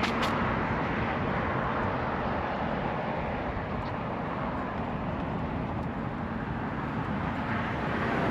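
Steady rush of road traffic, cars going up and down the road alongside.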